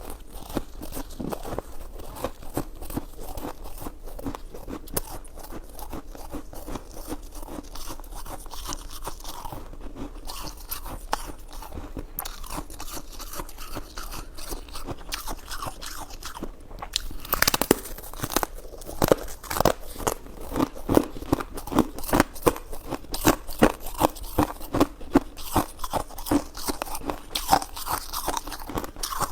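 Close-miked eating sounds of someone chewing soft, chewy jelly and mochi desserts: a dense run of small wet clicks and smacks, getting louder a little over halfway through.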